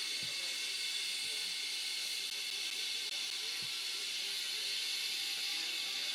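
A steady, even hiss with a few faint low thumps.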